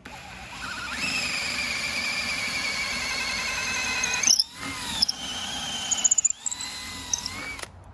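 Electric drill with a 27/64-inch bit boring through a wooden post-hole digger handle: a steady motor whine that cuts out briefly twice, about four and six seconds in, and stops shortly before the end.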